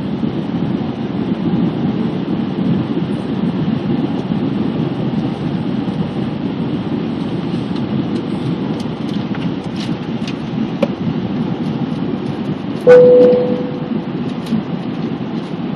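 Steady rumble of an Airbus A320 cabin on approach, from engines and airflow. About thirteen seconds in comes a sudden loud knock, with a short ringing tone that fades within a second.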